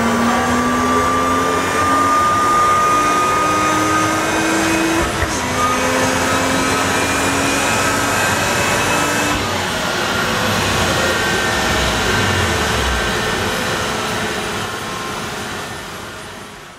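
Supercharged BMW 3 Series engine pulling hard on a chassis dyno. Its pitch climbs steadily, drops once about five seconds in at a gear change, then climbs again, with a high whine rising along with it. The sound fades over the last couple of seconds.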